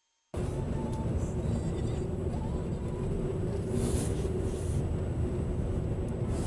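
Steady engine and road noise of a car driving, starting abruptly about a third of a second in and staying level throughout, with no impact.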